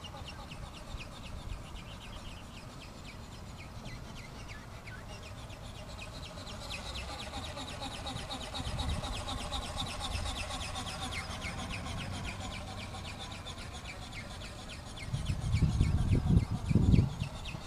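Birds calling in a dense, rapid chatter. Low rumbling thumps come in about three-quarters of the way through and are the loudest part.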